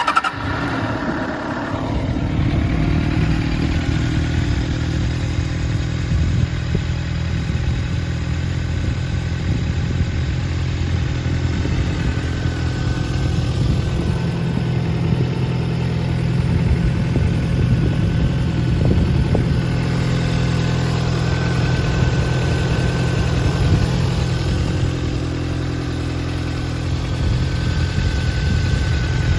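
Suzuki GSR400 inline-four motorcycle engine fires up, runs briefly higher, then settles within a couple of seconds into a steady idle through its exhaust.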